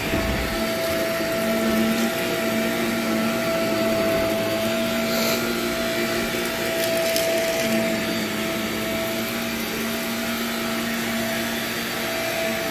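Vacuum cleaner running steadily over an old nylon carpet, its motor holding a constant hum, with a few short crackling ticks about five and seven seconds in as grit and debris are sucked up.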